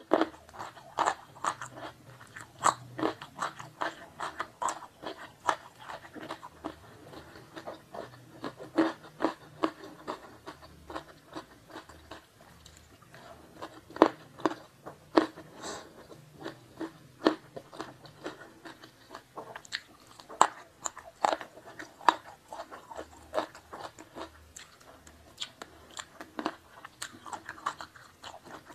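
A person chewing food close to the microphone, with many sharp, crisp crunches coming irregularly, often several a second.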